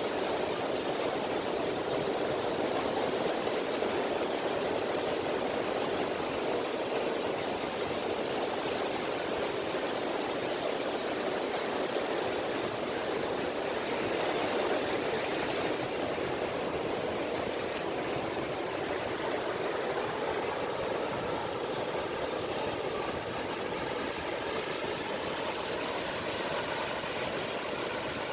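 Small sea waves (gentle ripples) washing on a beach, a steady, even rushing wash.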